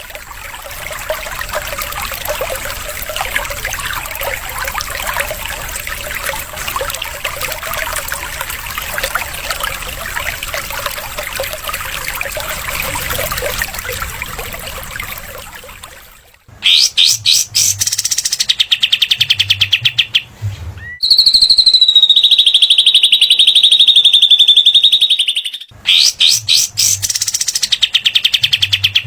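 Recorded songs of small songbirds, cililin and katem, used for training cage birds. For about the first half there is a dense, scratchy chatter. Rapid ticking trills follow, then one long, high, slightly wavering whistle, then rapid trills again near the end.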